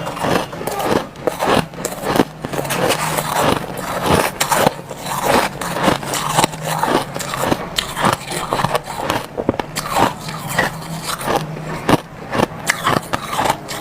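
Crushed ice being chewed close to the microphone: dense, irregular crunching, several crunches a second.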